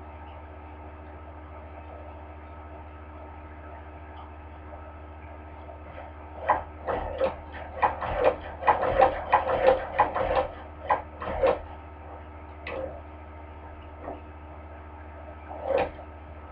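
Hand-crank cobbler sewing machine clacking through a run of stitches, about two strokes a second for some five seconds midway, then two single strokes, as a few stitches are sewn back and forth to lock the seam. A steady low hum runs underneath.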